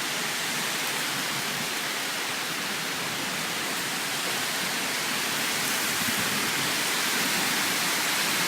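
Steady rain falling in an even hiss, growing a little louder near the end.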